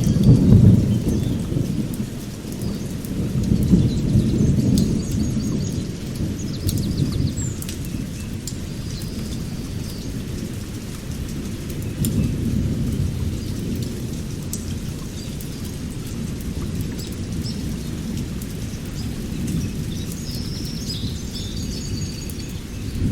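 Thunder rumbling over steady rain, with low swells near the start, around four seconds in and again around twelve seconds. Birds chirp now and then above it, notably mid-way through the first third and near the end.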